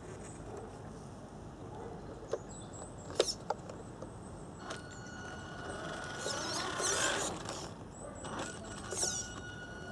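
A few sharp clicks, then the steady high whine of a small electric motor, which starts about halfway through and keeps running, with rustling and handling noise over it.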